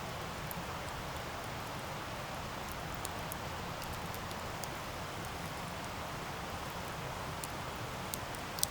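Wood campfire burning: a steady hiss of flames with scattered small crackles and pops, and one sharper pop near the end.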